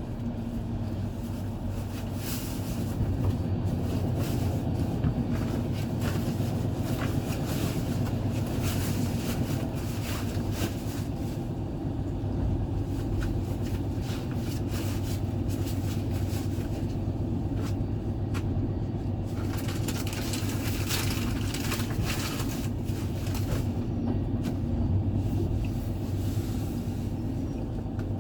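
Passenger train running along the line: a steady low rumble from the wheels on the rails, with many quick clicks and rattles all through.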